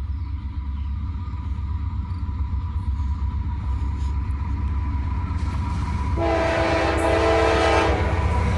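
CSX freight train approaching, its diesel locomotives rumbling and slowly growing louder. About six seconds in, the locomotive horn sounds one blast of nearly two seconds.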